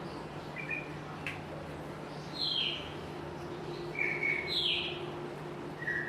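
A bird chirping nearby: short, falling chirps, about six in all, spaced a second or so apart.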